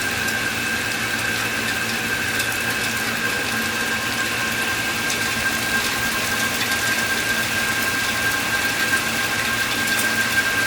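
Steady rain during a thunderstorm, a constant hiss with scattered faint ticks, and a steady high-pitched tone running through it.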